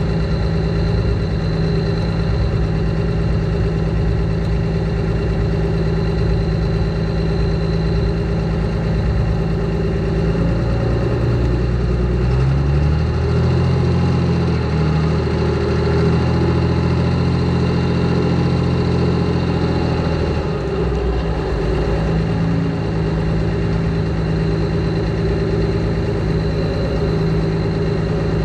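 Air-cooled Deutz diesel pulling-tractor engine idling. About twelve seconds in it rises to higher revs, holds there for about eight seconds, then drops back to idle.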